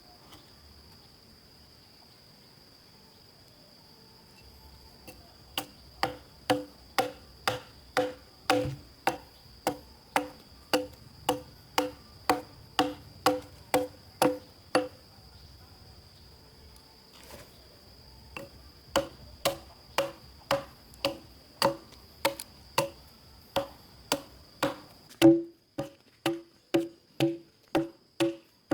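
Repeated knocks of a tool striking wood, about two a second, each short with a clear pitch. They come in two runs with a pause in the middle. An insect keeps up a steady high drone throughout.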